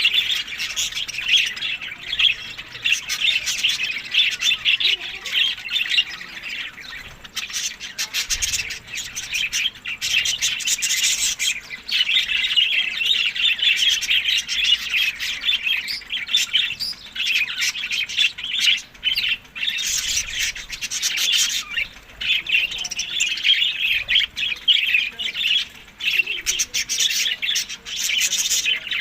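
Budgerigars chattering and squawking continuously, a dense flock of warbling calls with sharp chirps throughout.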